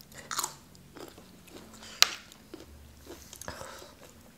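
Close-up biting and chewing of crisp raw vegetables, a raw long bean among them, with scattered crunches and one sharp crunch about two seconds in.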